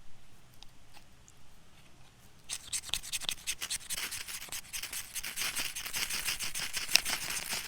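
Ferro rod being scraped hard and fast with a striker, a rapid run of sharp rasping strokes starting about two and a half seconds in, after a few faint scratches. The sparks are not catching the pine needles.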